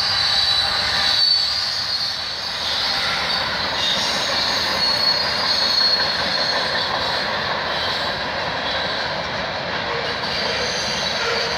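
CN freight train's cars rolling across a rail overpass, a steady rumble and rattle of steel wheels on the rails with high-pitched wheel squeal, strongest in the first few seconds.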